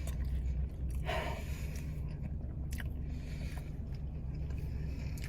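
A person chewing a mouthful of cheeseburger, with a few soft wet mouth sounds over a steady low hum.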